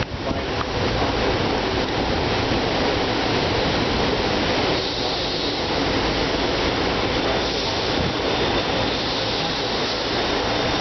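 SEPTA train moving along a station platform: steady wheel-on-rail and running noise.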